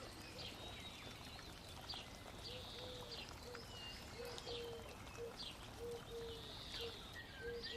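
Faint birds calling: short, repeated low notes like cooing, with scattered high chirps.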